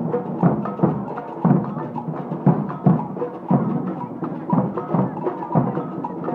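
Marching band playing a march, its drums beating a steady rhythm of about two strokes a second under the band's held notes.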